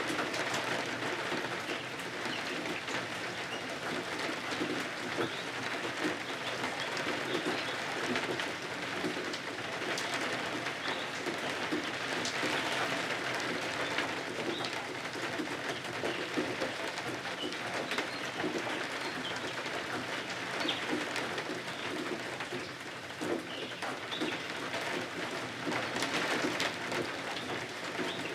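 Steady rain falling, a dense even patter.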